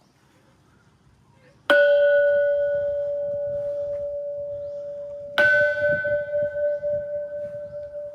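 A temple bell struck twice, about four seconds apart, each strike ringing on in a long, slowly fading tone at the same pitch.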